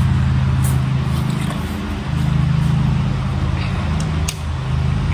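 A steady, loud, low mechanical hum, like an engine or machine running, that dips briefly twice.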